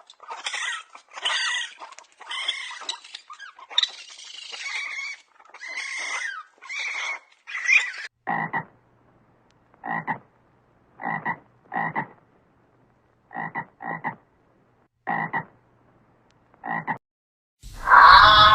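Frogs croaking: about eight seconds of rapid, irregular croaks, then single short croaks spaced a second or so apart.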